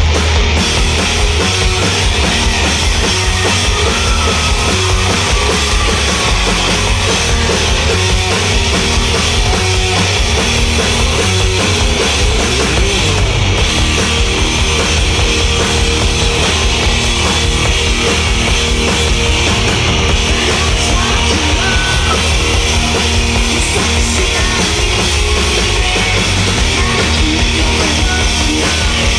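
Loud rock music with a drum kit and electric guitars, running steadily without a break.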